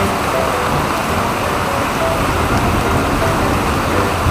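Steady rain falling on a concrete yard, a dense even hiss with no let-up.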